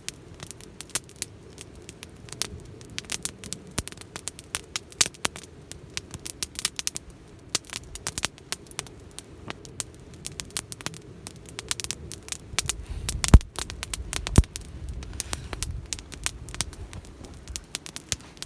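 Wood fire crackling in a Picogrill folding fire pit: a steady run of sharp snaps and ticks, with two louder pops about two-thirds of the way in. A low rumble, like wind on the microphone, swells briefly around the same time.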